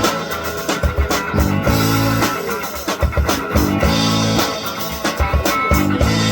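Live rock band playing an instrumental passage: guitar, bass and drum kit keeping a steady beat, with no vocals.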